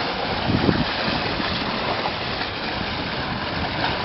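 Steady rush of wind and water as a sailboat moves under way, a continuous hiss with no clear rhythm.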